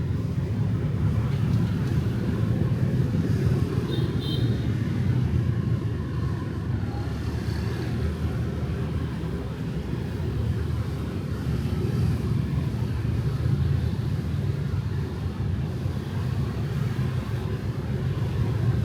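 Steady rumble of night street traffic with motorbikes, swelling and easing slightly, with a brief high tone about four seconds in.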